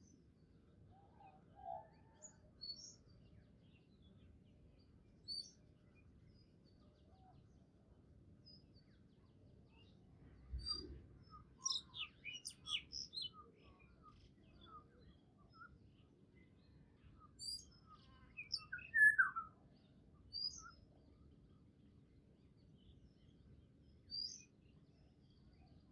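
Small birds chirping in short, scattered high calls, with busier runs of chirps about ten to thirteen seconds in and again around nineteen seconds, over a faint low hum. A soft thump comes about ten seconds in.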